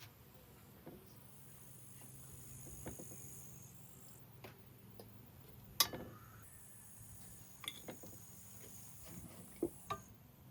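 Scattered soft knocks and clicks, with one sharper click about six seconds in and two close together near the end, over a faint steady high hiss.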